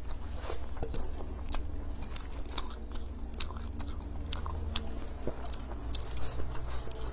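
Close-miked eating sounds from a person chewing mouthfuls of rice and braised pork belly: a steady run of wet mouth clicks and smacks at irregular spacing. A low steady hum sits underneath.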